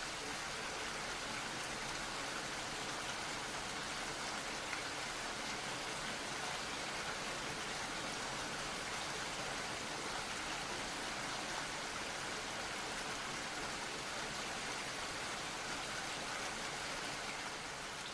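Steady rainfall, an even hiss of falling rain and drops striking a surface, with no thunder or single loud events.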